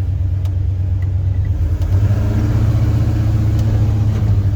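1979 Ford truck's engine running as the truck drives off, its note getting louder and fuller about two seconds in as it pulls away.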